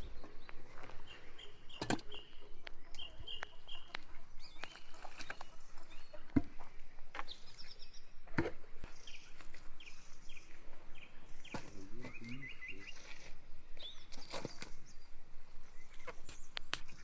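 Small birds chirping in short runs of quick notes, over frequent clicks and knocks.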